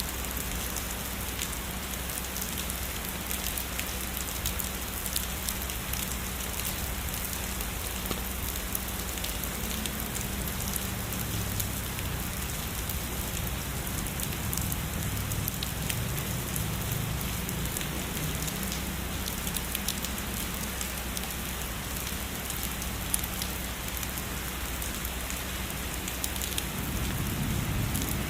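Heavy rain falling steadily on a surface, with fine drop ticks all through it. A soft low rumble comes and goes underneath.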